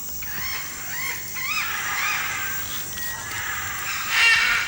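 Blue-and-yellow macaws calling: a few short whistled calls that rise and fall in pitch, then loud harsh squawks near the end.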